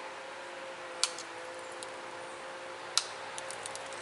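Tiger chert being pressure-flaked with a copper pressure flaker: two sharp clicks as small flakes pop off the edge, about a second in and near three seconds, followed by a few faint ticks.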